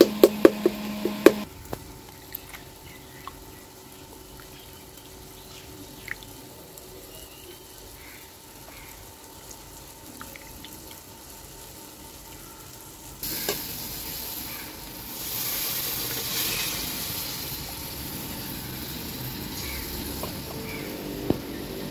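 Slotted metal spatula tapping quickly against an aluminium cooking pot for about the first second, then a quiet stretch. A little past halfway a steady frying sizzle starts suddenly and grows louder a couple of seconds later: masala paste cooking in hot oil in the pot over the wood fire.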